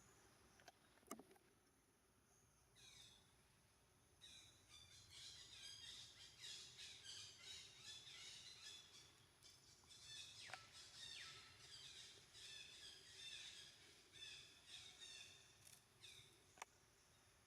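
Faint, high-pitched bird chirping, many short calls in quick succession, some sliding down in pitch. It starts about four seconds in and fades near the end, with a few sharp clicks.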